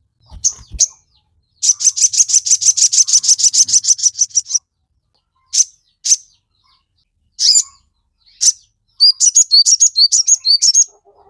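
Sogon songbird singing: a fast, even high trill of about ten notes a second lasting some three seconds, then a few single sharp calls, and near the end a quick run of short chirps. A couple of faint low knocks come in the first second.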